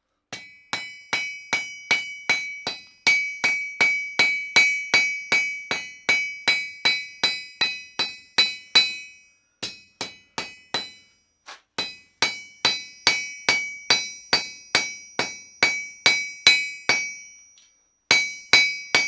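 Hand hammer striking a bar of steel on an anvil, a run of ringing blows about two to three a second, with short pauses about halfway through and near the end.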